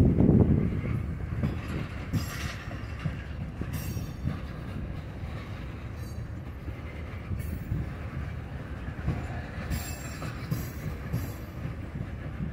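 Freight train of tank cars and covered hoppers rolling slowly past: a steady rumble of wheels on rail, with short high wheel squeals flaring up several times. A louder low rumble dies away in the first second.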